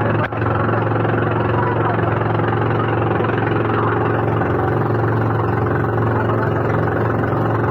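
Boat engine running steadily at an even speed, heard from on board, with a brief dropout just after the start.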